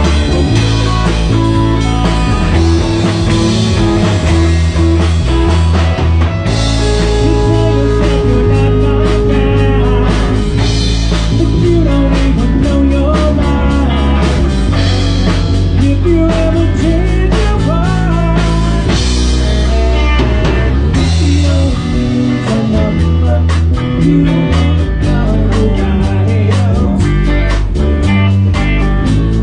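Rock music with a drum kit keeping a steady beat under bass and electric guitar.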